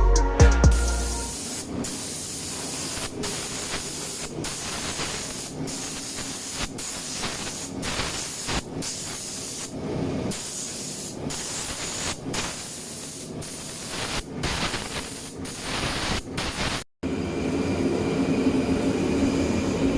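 Compressed-air spray gun hissing as primer is sprayed on in passes, the trigger released for short breaks about once a second. After a sudden cut near the end, a steadier, lower mechanical hum takes over.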